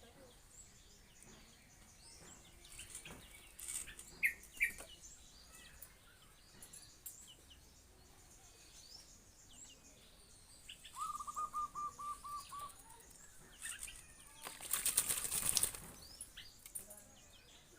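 A bird's wings flapping in a short burst of about a second and a half near the end, the loudest sound, over scattered small bird chirps and a brief rapid trill midway.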